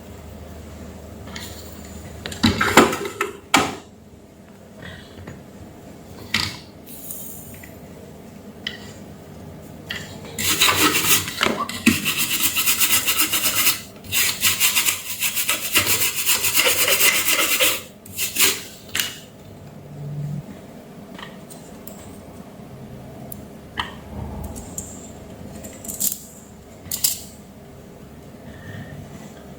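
Scraping and rubbing, with one continuous scratchy stretch of about seven seconds in the middle and scattered short clicks and taps around it.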